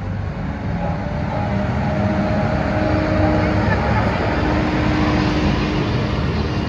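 Diesel engine of a heavy vehicle running as it passes, growing louder over the first few seconds and then holding steady, with voices in the background.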